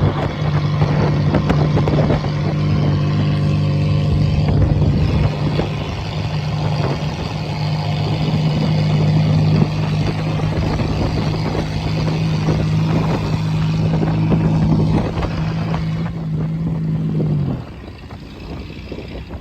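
Buick car engine running hard at a steady speed, with road and wind noise. Near the end the engine note drops and falls away, leaving quieter wind noise.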